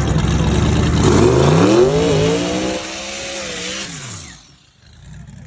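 Twin-turbocharged C6 Corvette V8 at full throttle: the revs climb steeply with a brief dip partway through, then the engine note drops in pitch and fades away about four seconds in.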